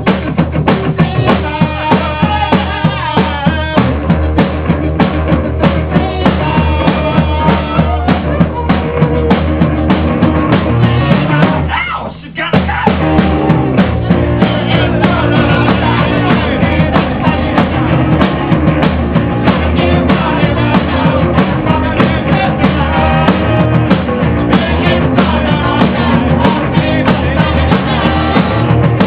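Rock band playing live, with a drum kit driving a steady beat under bass and guitar. The band stops briefly about twelve seconds in, then comes back in.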